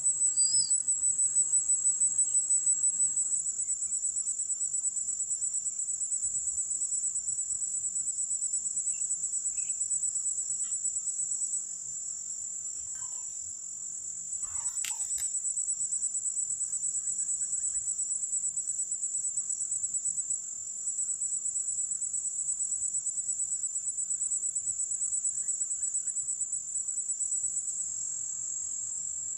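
Steady high-pitched drone of a tropical insect chorus, crickets or cicadas, with a fine rapid pulsing, dipping slightly in level a few times.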